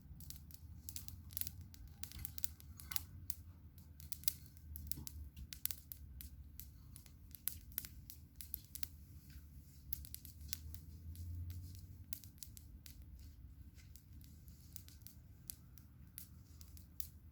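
Campfire crackling: irregular sharp snaps and pops of burning wood over a low steady rumble.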